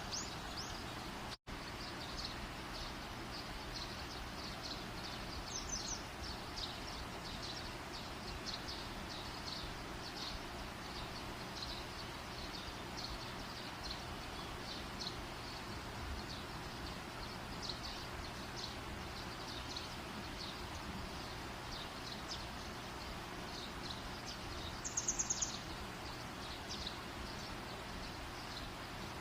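Campfire burning with a steady hiss, over many short high chirps from outdoor wildlife, and a quick run of rapid high chirps about 25 seconds in. The sound cuts out for a split second near the start.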